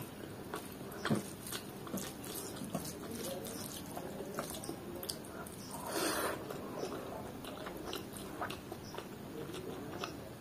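Close-miked eating by hand: chewing rice and chicken liver curry with wet, smacking mouth clicks. There is a sharp click about a second in and a louder, longer noisy burst about six seconds in as a handful goes into the mouth.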